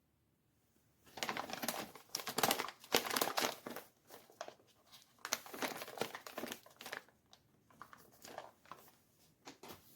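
Crinkling and rustling of packaging material being handled, dense for several seconds after about a second in, then sparser and more broken up toward the end.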